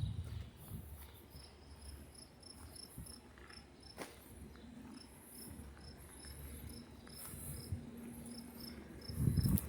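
Insect chirping outdoors in a steady series of short, high chirps, about three a second. Wind rumbles on the microphone underneath, with a stronger gust near the end.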